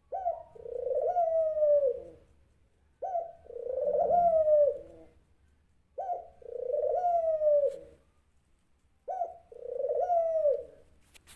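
A dove cooing: four calls about three seconds apart, each a short note followed by a longer note that falls away at its end. A brief click near the end.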